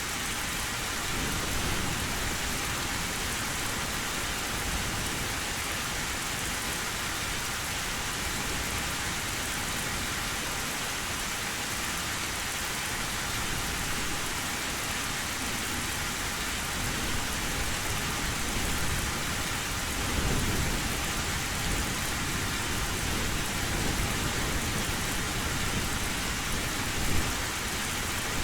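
Heavy rain falling steadily on a metal roof, with low thunder rumbles swelling up a few times, the strongest about two-thirds of the way through and a short louder peak near the end.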